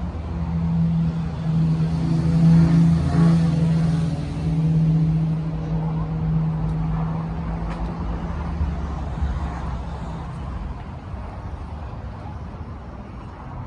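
An engine humming steadily, growing louder to a peak a few seconds in, then slowly fading away, like a motor vehicle passing.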